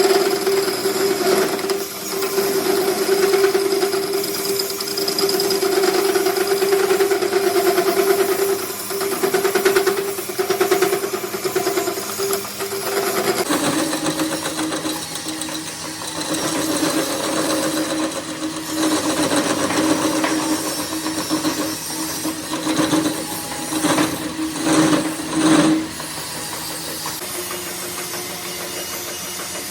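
Workshop machinery running steadily with a hum and a rough scraping noise. The hum drops to a lower pitch about halfway through, a few uneven knocks follow, and the machine stops a few seconds before the end.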